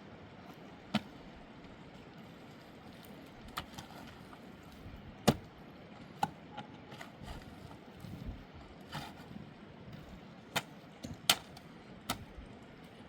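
Irregular sharp knocks and clacks, about eight of them at uneven gaps, over a steady low rushing background.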